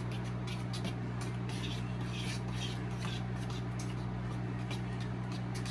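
Fork stirring pancake batter in a bowl: quick, irregular scraping strokes against the bowl, several a second, over a steady low hum.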